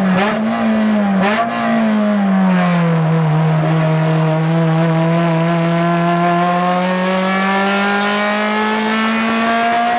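Acura RSX Type S race car's 2.0-litre four-cylinder engine heard from inside the cabin, its pitch falling over the first few seconds and then climbing slowly and steadily as the car accelerates.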